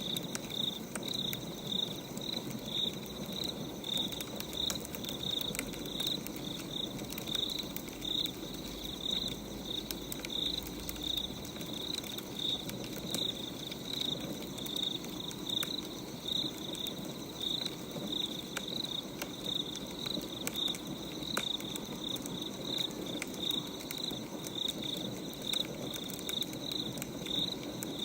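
A cricket chirping in steady, evenly spaced pulses, over the scattered faint crackle of a burning wood fire.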